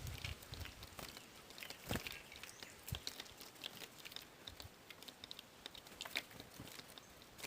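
Faint, irregular small clicks and ticks, with a few sharper knocks.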